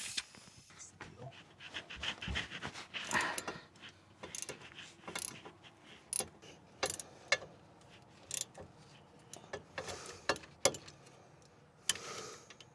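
Irregular metallic clicks, clinks and knocks of hand tools and sockets on the driveshaft yoke bolts, with no steady run of a power tool.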